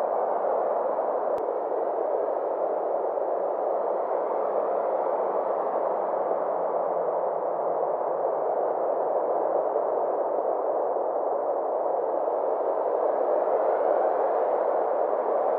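Synthesized space ambience: a steady, noise-like drone centred in the middle range, its tone slowly brightening and dulling over several seconds.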